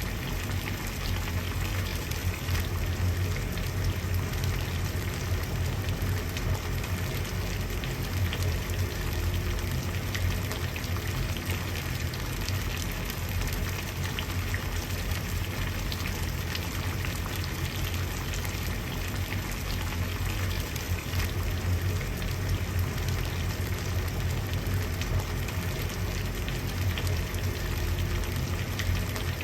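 Water at a steady boil: continuous bubbling with many small pops over a low rumble.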